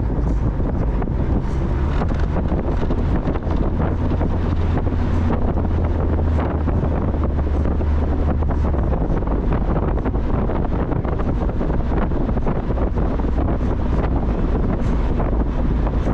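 Wind buffeting the microphone of a moving Mazda Miata, over a steady low engine and road rumble.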